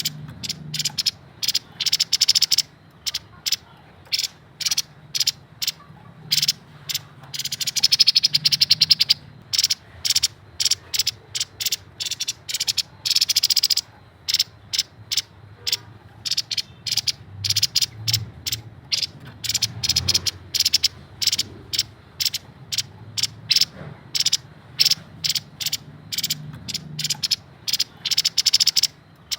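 Grey-headed babbler calling: a long run of short, sharp notes repeated several times a second, broken twice by faster rattling trills.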